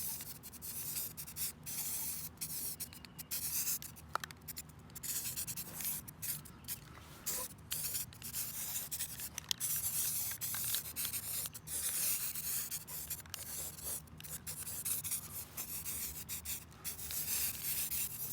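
Aerosol spray paint can spraying, a high hiss in many short bursts with brief pauses between them.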